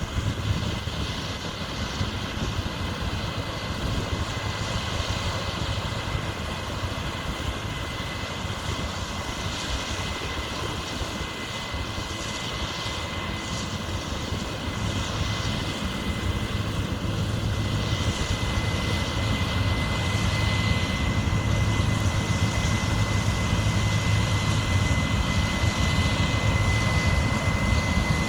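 Large farm machine running steadily at work, a low engine hum with a thin steady high whine over it, growing louder in the second half as it comes closer.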